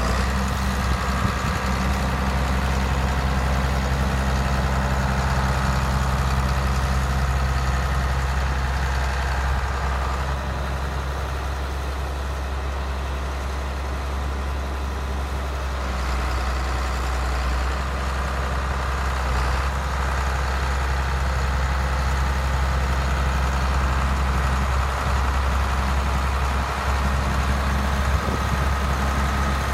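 John Deere 4450 tractor's six-cylinder turbocharged diesel engine idling steadily.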